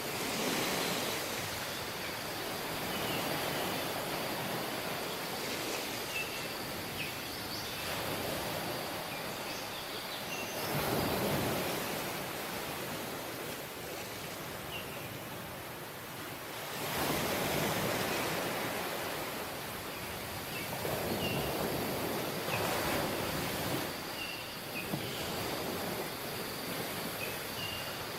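Surf on a tropical beach: waves washing in and falling back, the rush swelling every few seconds, with faint short high chirps now and then.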